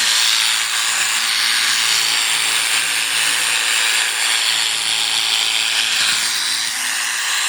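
Electric sheep-shearing clippers running steadily, shearing a sheep.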